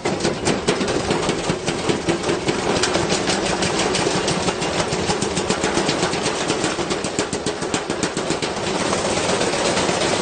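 Washing machine running with a heavy object loose in its drum, banging against it in a fast, irregular clatter over the steady hum of the machine: the machine is being wrecked from the inside.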